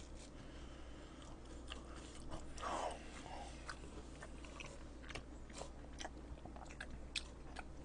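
A person chewing food close to the microphone: quiet wet mouth clicks and smacks, with a slightly louder chewing sound about three seconds in.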